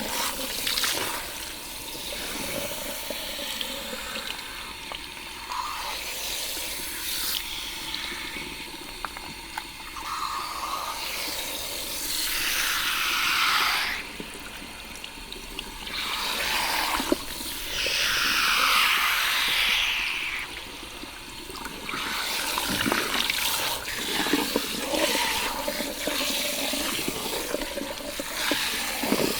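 Water from a salon shampoo-station shower head spraying onto hair and into the basin during a rinse, swelling louder twice near the middle.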